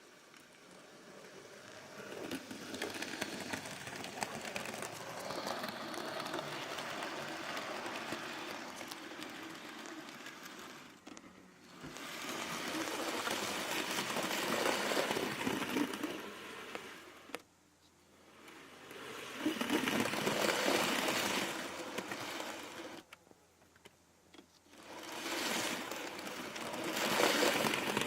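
Model Class 57 locomotive running on the track, its small electric motor whirring and its wheels rattling on the rails. The sound swells and fades four times as the locomotive comes nearer and moves away.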